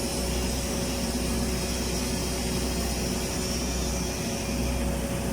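Steady machine noise from automatic girth welding equipment: a low hum under a constant high hiss, with two faint steady tones and no breaks.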